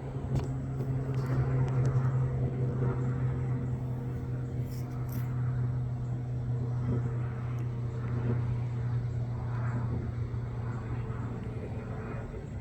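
Cessna 441 Conquest twin turboprop flying over high up: a steady, distant drone with a low hum and a couple of fainter higher tones, swelling slightly about two seconds in.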